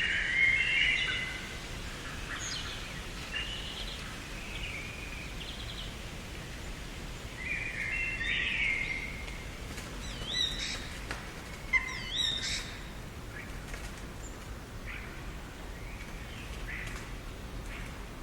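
Small garden birds chirping and calling in short phrases, some with quick rising sweeps. The calls come in clusters at the start and around the middle, with fainter ones later, over a steady low background hiss.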